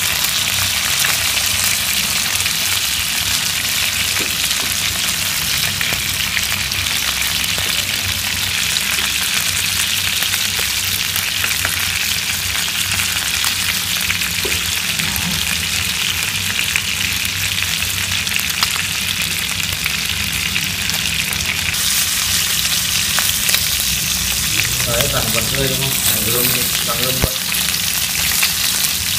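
Field-rat meat frying in hot oil in a nonstick pan: a steady, dense sizzle, with the odd light click as chopsticks turn the pieces.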